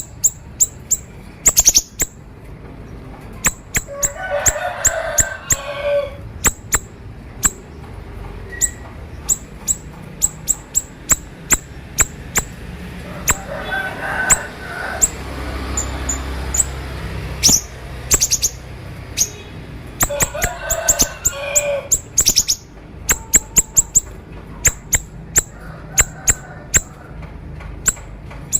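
Siri-siri songbird singing in the sharp, rapid 'konslet' style. Quick clusters of very high, steeply falling chips are broken at intervals by lower, warbled phrases.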